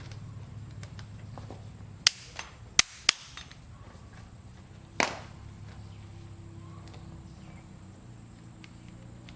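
Sharp knocks: four in quick succession about two to three seconds in and one more about five seconds in, over a low steady hum.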